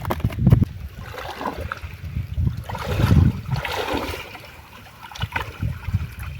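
River water splashing and sloshing irregularly as a hand fishing net is worked through it, with a larger splash about three seconds in and uneven low bumps throughout.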